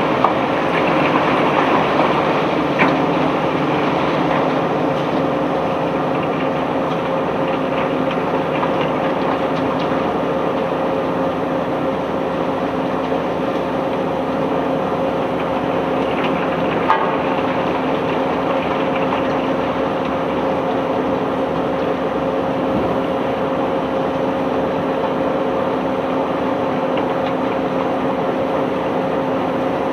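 Heavy unloading machinery running steadily with a constant hum, with a few sharp knocks near the start and once about halfway through.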